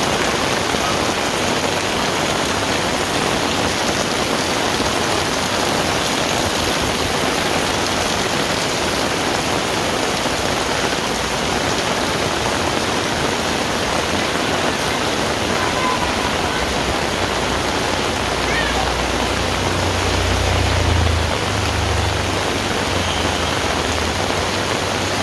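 Heavy rain falling steadily, a dense, even hiss. A low rumble swells and fades about three-quarters of the way through.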